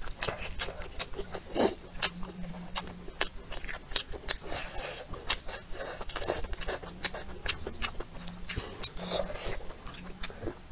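A person eating: wet chewing and lip-smacking of a mouthful of rice and braised food, with many sharp little clicks, several a second.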